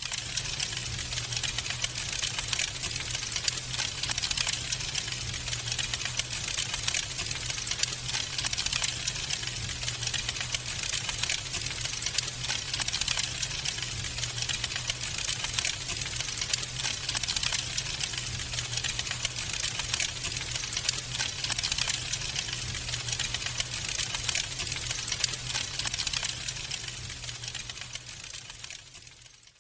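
Wood fire crackling: a dense, irregular stream of small pops and snaps that fades out near the end.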